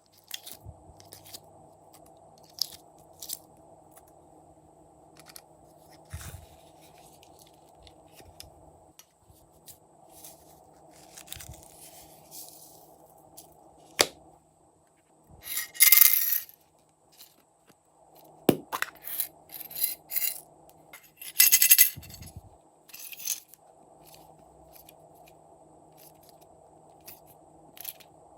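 Slime being handled and mixed: scattered sticky clicks and pops, with two louder crackling scrapes about halfway through and again a few seconds later.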